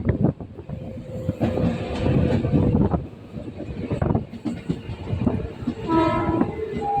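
Mumbai suburban local train running: a loud, continuous rumble with rattling and wheel clatter. A short pitched tone sounds about six seconds in.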